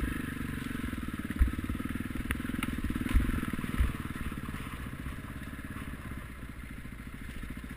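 Motocross bike engine running, its note easing off over the last few seconds, with a few short low thumps in the first half.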